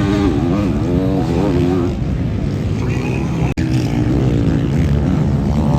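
Several motocross bikes racing on the track, their engines revving up and down through the gears in rising and falling pitch. There is a momentary break in the sound a little past halfway.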